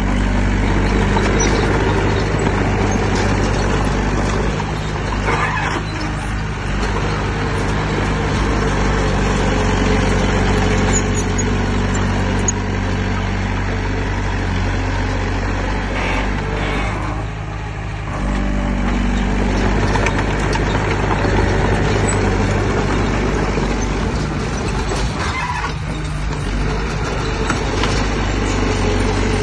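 Heavy diesel engine of earthmoving machinery running steadily under load. It briefly eases about seventeen seconds in, then picks up again.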